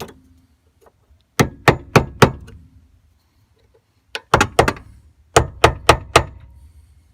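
Hammer blows on a GM truck door hinge pin, struck in three quick runs of three or four sharp metallic hits, about three a second, with short pauses between.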